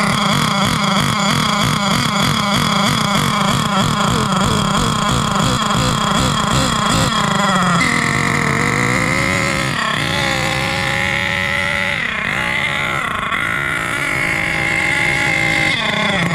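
HPI Savage X4.6's small nitro engine running rich while it warms up during break-in. Its note wavers up and down quickly in the first half, then settles to a steadier pitch about halfway through.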